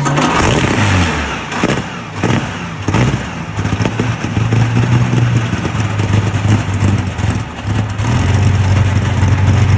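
Rolls-Royce Merlin 27-litre V12 aero engine running in a car: a loud burst at the start and a few sharp revs in the first three seconds, then it settles to a steady but uneven low idle.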